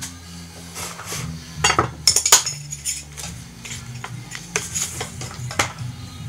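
Ikea Slitbar VG10 kitchen knife drawn along the ceramic rods of a Spyderco TriAngle Sharpmaker: irregular quick scraping strokes with light metallic clinks.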